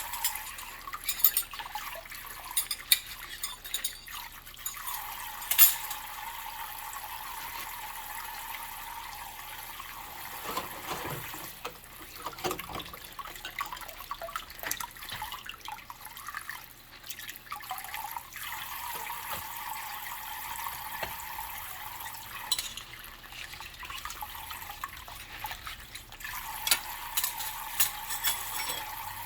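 Water running from a tap into a sink while dishes are washed by hand, with sharp clinks of dishes knocking together in the first few seconds and again near the end.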